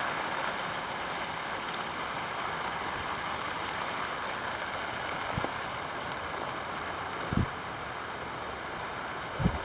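Heavy rain pouring down in a steady hiss, with a few dull knocks about five, seven and nine seconds in.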